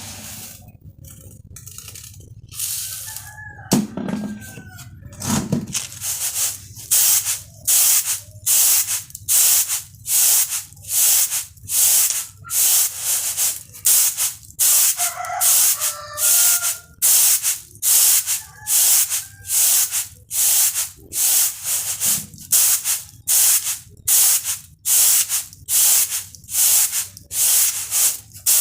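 Rice being winnowed on a woven bamboo tray: the grains swish and rattle against the tray in a steady rhythm, about one and a half strokes a second, which settles in about six seconds in after softer, irregular shaking. Chickens call a few times in the background.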